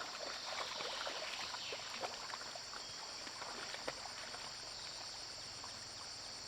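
Steady chorus of crickets and other insects, a continuous high drone, with a fast pulsing trill joining in about two seconds in. Light scattered clicks and rustles in the first few seconds.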